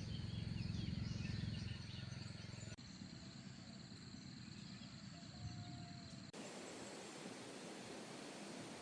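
Faint outdoor ambience with steady high insect-like tones and a low hum during the first few seconds. The sound changes abruptly twice.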